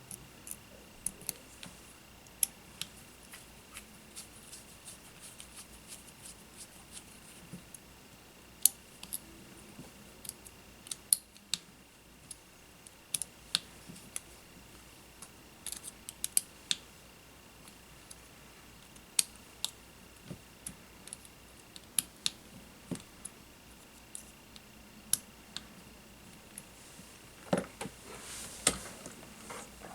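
Small hand tools and drone-frame parts being handled at a workbench: irregular sharp clicks, taps and snips, with a busier run of them near the end. Under them run a faint steady high whine and room hiss.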